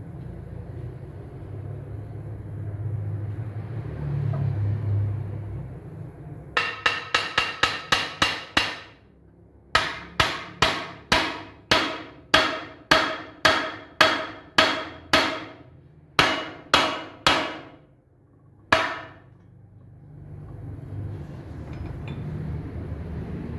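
Hammer blows ringing on a steel truck wheel rim: a quick run of about nine strikes, a short pause, then about a dozen slower, evenly spaced blows and a last few. A steady low machine rumble comes before and after the hammering.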